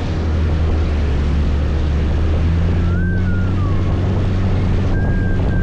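Scooter engine running steadily under way, with wind and road noise from the ride. A thin high tone rises and falls about three seconds in and comes back, held steady, near the end.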